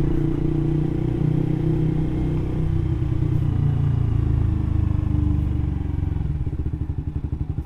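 Suzuki GSX-R150's single-cylinder engine through an aftermarket R9 Mugello silencer on a Proliner header, running at low revs with a very bassy exhaust note. Toward the end the revs drop and the separate exhaust pulses can be heard.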